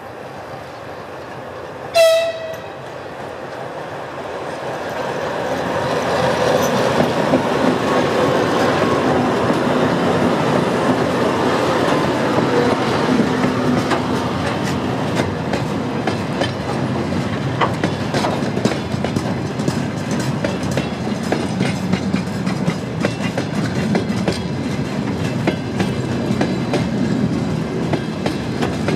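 One short, high horn blast about two seconds in, the loudest sound, from a 2TE116K twin-section diesel locomotive hauling a freight train. Its diesel engines then grow louder as it passes, and the freight wagons roll by with a steady clickety-clack of wheels over rail joints.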